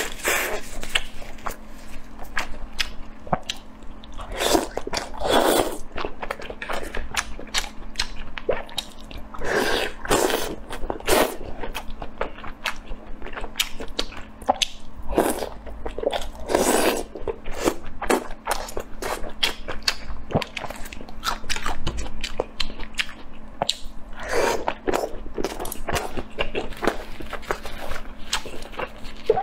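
Close-miked eating of sauce-coated spicy food: a continuous run of bites, chewing and wet mouth clicks and smacks, with no talking.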